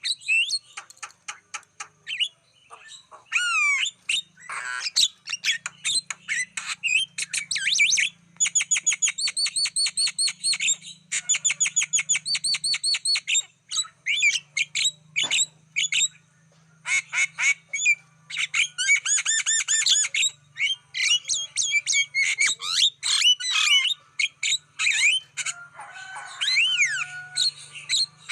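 Javan myna singing a long, varied song of chatter, whistled sweeps and harsh squawks, with fast runs of repeated chirps.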